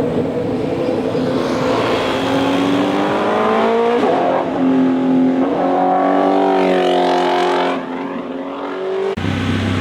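Motorcycle engine accelerating hard, its pitch climbing, dropping with a gear change about four seconds in, then climbing again. Near the end the sound changes suddenly to a lower steady engine note.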